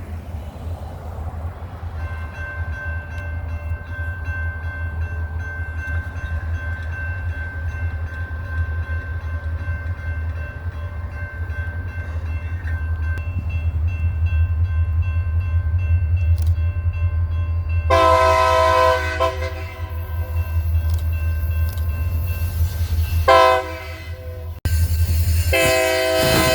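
Diesel freight locomotives rumbling past as the lead unit sounds its multi-chime air horn. A faint steady horn tone is followed by a loud blast about 18 seconds in, a short one near 23 seconds and a long one starting near the end.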